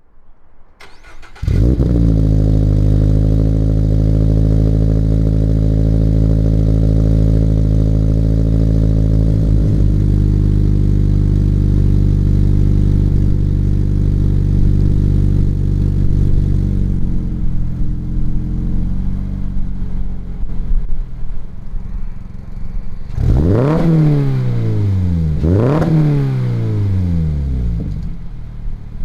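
Subaru/Toyota flat-four engine breathing through a FactionFab catback exhaust: it starts, settles into a high fast idle that steps down to a lower idle, then is blipped twice, each rev rising sharply and falling back. The tone is deep and mild, not raspy.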